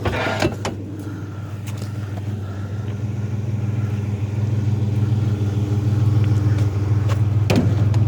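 Pickup truck engine idling steadily at an even pitch, with a few sharp clicks and knocks near the start and near the end.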